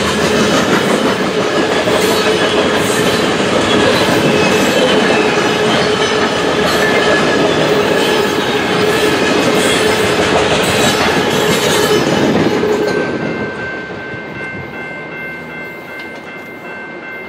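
Loaded tank cars of a long freight train rolling past, wheels clattering over the rails under a steady metallic squeal. About 13 seconds in, the last car goes by and the sound drops away to a fainter fading rumble with a thin steady high tone.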